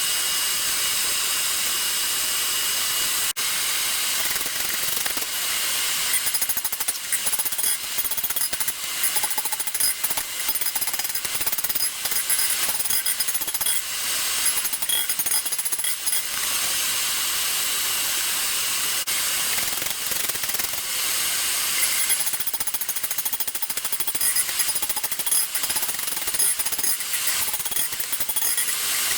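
A power tool working steel keeps up a steady high-pitched running noise, with stretches of rapid rattling.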